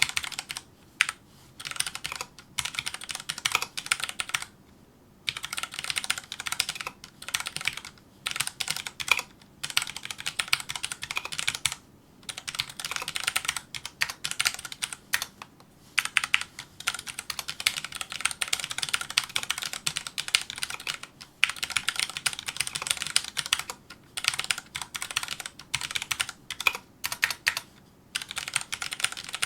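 Fast touch-typing on a Filco Majestouch2 mechanical keyboard with Cherry MX Brown tactile switches: rapid runs of keystroke clacks broken by brief pauses, the longest about a second.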